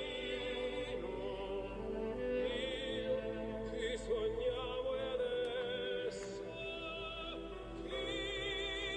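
Classical music: an operatic voice singing long notes with vibrato over orchestral accompaniment.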